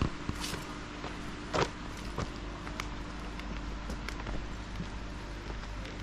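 Footsteps, with scattered clicks and taps a second or so apart, over a steady low hum.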